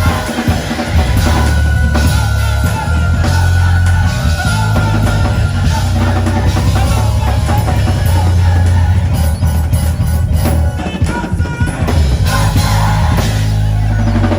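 Gospel group performing a song with a band: singing over a drum kit and heavy bass.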